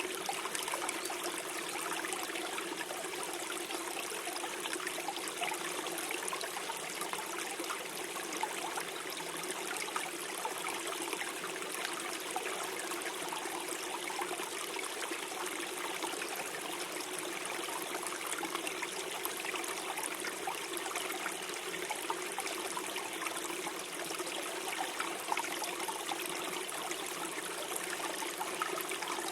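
Small forest stream flowing and gurgling steadily over stones.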